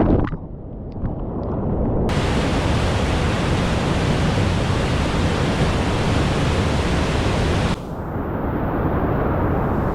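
Rain-swollen creek water rushing down a rock waterslide and waterfall: a loud, steady rush. The sound turns muffled and duller twice, just after the start and again near the end, each time cutting in abruptly.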